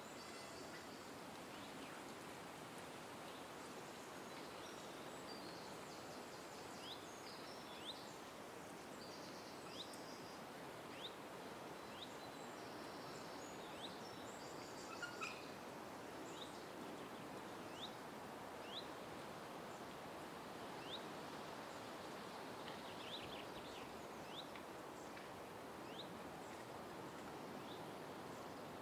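Small birds calling over a steady background rush: a repeated short, sharp note sliding downward every second or two, with a few higher chirps in the first seconds.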